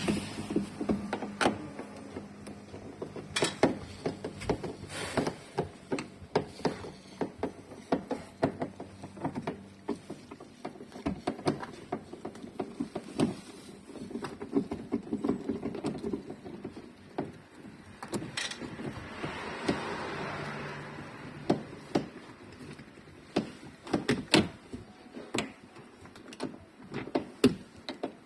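Irregular clicks, knocks and plastic rattles of car interior trim and clips being worked loose by hand, as the headliner and grab handles are taken off a car's roof. A low steady hum runs under the first third.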